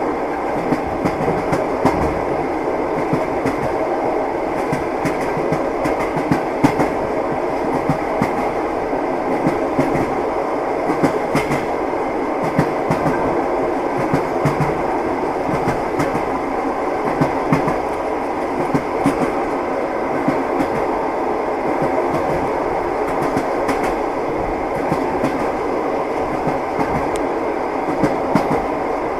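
Train wheels clattering on the rails as the train rolls along: a steady rumble with frequent clicks and knocks from the wheels.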